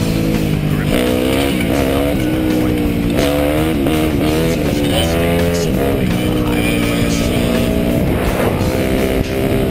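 Dirt bike engine running under load, its pitch repeatedly rising and falling as the throttle is opened and closed.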